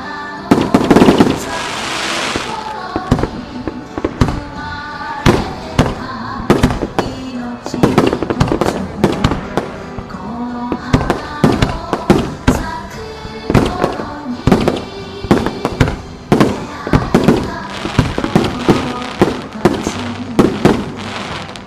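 Aerial fireworks bursting in rapid succession: dozens of sharp bangs one after another, with a dense loud salvo starting about half a second in, over music playing with the show.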